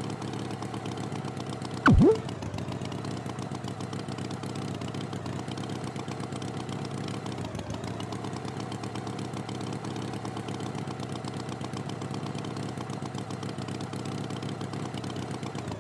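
Tractor engine running at a steady idle. About two seconds in, a brief loud sliding tone drops sharply and then rises again.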